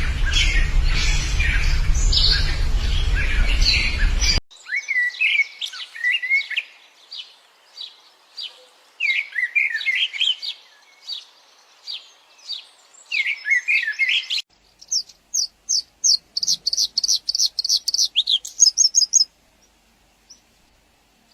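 Songbirds singing, heard in three separate edited pieces. First comes birdsong over a low rumble, then chirping song with sliding notes, and then a fast series of high repeated notes, about five a second, lasting some four seconds.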